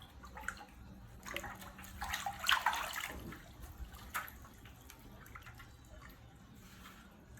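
Water splashing and dripping in small irregular bursts, busiest between about one and three seconds in.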